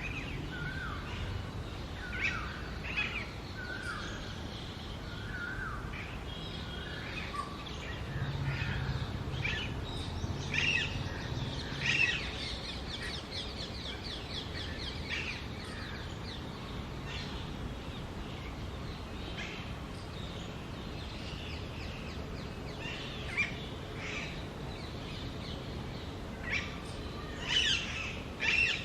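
Female Alexandrine parakeet calling: short harsh call notes repeated in bunches with quieter gaps between, over a steady low background rumble.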